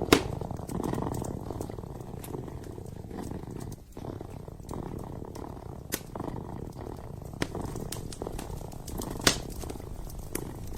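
A kitten purring steadily in a low, pulsing rumble, with sharp crackles and pops from a burning fireplace. The loudest pop comes right at the start, and another comes about nine seconds in.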